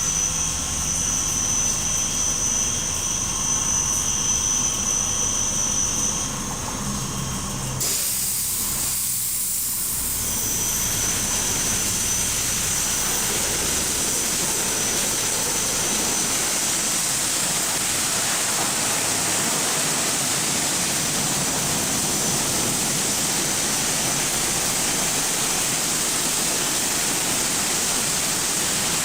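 Belanger FreeStyler in-bay automatic car wash running: a steady high whine over a motor hum for about eight seconds, then after a short dip a steady, even rushing hiss takes over.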